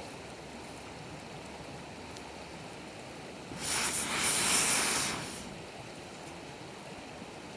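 Campfire burning with a low, steady background of faint crackles. About three and a half seconds in, a hissing rush of air swells for about a second and a half and fades away.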